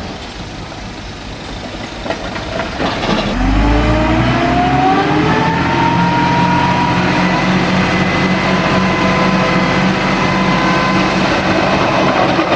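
Heavy diesel engine of a bulldozer running at low revs, then revving up quickly about three seconds in and holding at high revs under load, its pitch creeping slightly higher.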